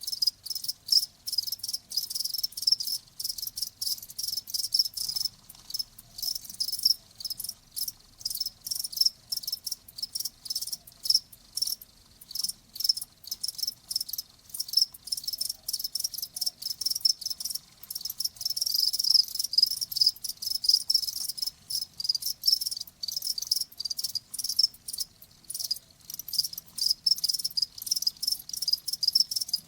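Crickets chirping: quick, high-pitched pulses repeating several times a second without a break.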